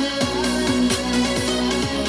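Electronic dance music with a steady kick-drum beat and sustained synth tones, played back through a Philips 47PFL6002/12 2.1 TV speaker system with a flat woofer.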